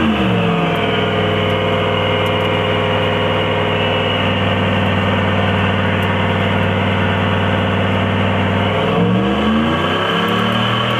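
1996 Dodge Ram pickup's engine held at steady high revs during a burnout, its rear tire spinning in place. Near the end the revs drop and climb again.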